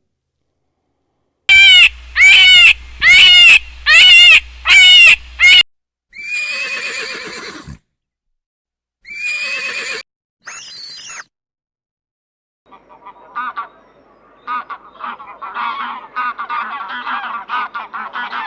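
A run of different animal calls: six loud, evenly spaced pitched calls, then a few single calls, then a stretch of rapid chattering calls.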